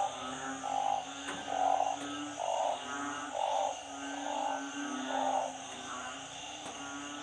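A chorus of frogs. One frog gives a loud call about once a second, seven times, then stops about five seconds in, over a steady, high-pitched chorus of other frogs.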